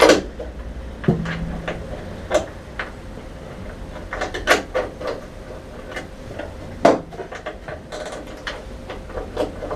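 Irregular clicks and knocks of small metal hardware, the nuts, washers and catch pin, being handled and fitted to the bonnet, with two louder knocks about four and a half and seven seconds in.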